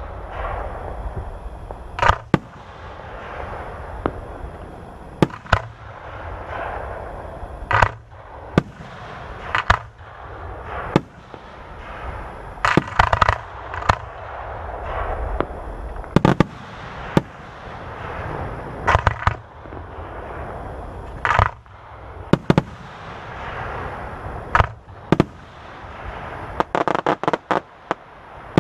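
Aerial fireworks shells bursting one after another, a sharp boom every second or two, each followed by crackle and rumble as the shells echo. Near the end comes a quick run of about a dozen rapid pops.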